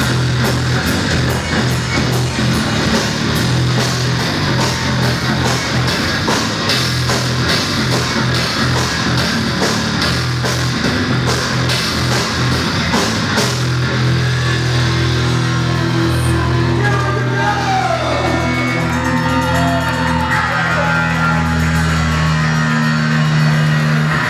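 Live heavy rock band playing loud with distorted guitars and drums. The drumming is dense for the first half, then thins out to held chords with a few sliding, wavering notes.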